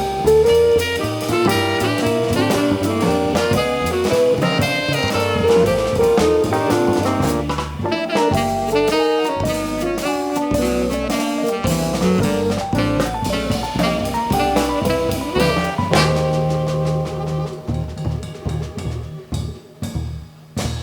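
Live jazz band with drum kit and a horn lead playing a busy up-tempo passage. About 16 seconds in, the band settles onto a long held chord under scattered drum hits, and the sound dies away near the end as the tune closes.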